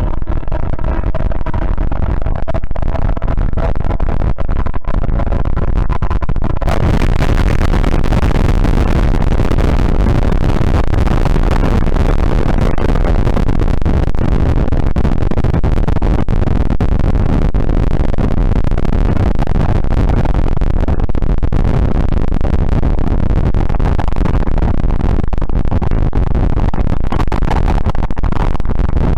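Experimental noise composition: a fading horn-like chord over a deep rumble, then about seven seconds in a dense, loud wall of noise cuts in and holds steady.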